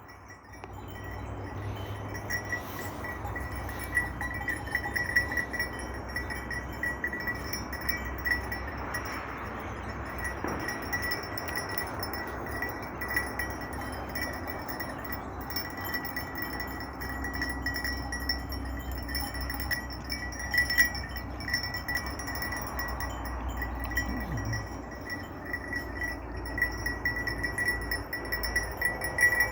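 Metal bells worn by a grazing flock of Sakız (Chios) sheep clinking and ringing irregularly and without pause.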